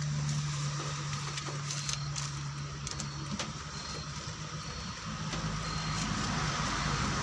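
A motor vehicle's engine running steadily, its hum fading about three seconds in and building again near the end, over a constant hiss.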